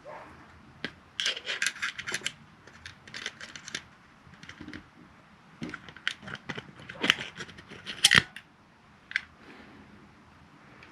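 Small irregular metal clicks and scrapes as needle-nose pliers grip and work the magazine-catch spring out of a Glock pistol's frame, freeing the magazine release. The clicks come in several short clusters.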